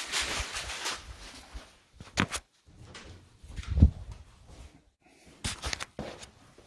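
Rustling and knocking handling noise, with one heavy low thump about four seconds in.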